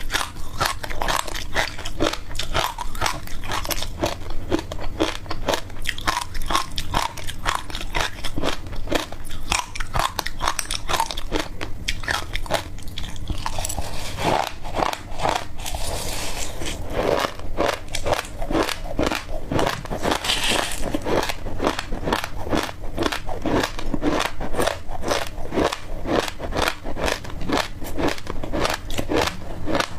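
Close-up crunchy biting and chewing, a steady run of crisp crunches about two to three a second, with a couple of rougher, grittier stretches midway.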